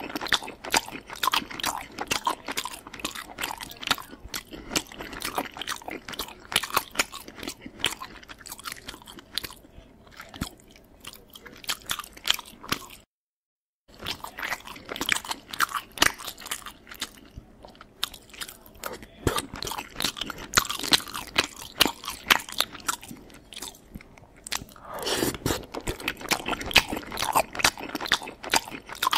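Close-miked chewing of a mouthful of sauced pasta: a dense, irregular run of small wet clicks and mouth noises. The sound cuts out completely for about a second near the middle.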